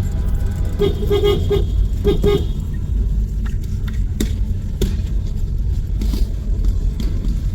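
City street traffic with a steady low rumble, and car horns giving a quick series of short beeps about a second in, then two more shortly after.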